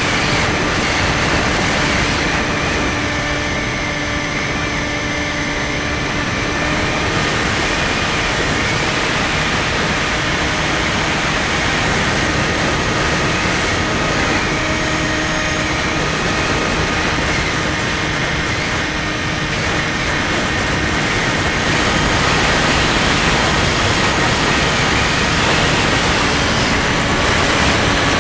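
Steady rush of wind noise from onboard a Skywalker 1680 radio-controlled plane in flight, with the faint steady whine of its electric motor and propeller underneath. It grows a little louder about three quarters of the way in.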